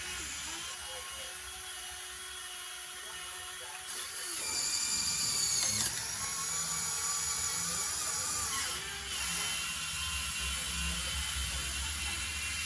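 Small electric motor and hydraulic pump of a radio-controlled construction model whining under load, louder and higher from about four seconds in and easing slightly near nine seconds.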